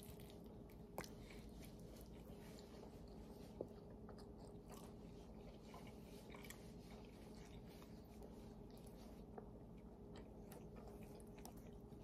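Faint, close chewing and mouth sounds of someone eating macaroni and cheese, with scattered small wet clicks; a sharper click comes about a second in and another about three and a half seconds in.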